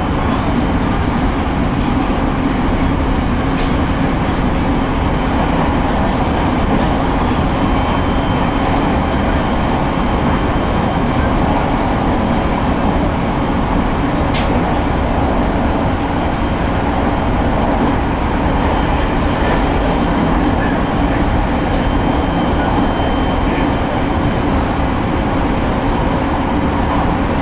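Electric commuter train running at speed: a steady rumble of wheels on rail with a faint steady hum, heard from inside the carriage.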